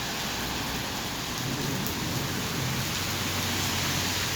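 Steady heavy rain falling and splashing on the street, an even hiss with a faint low hum underneath.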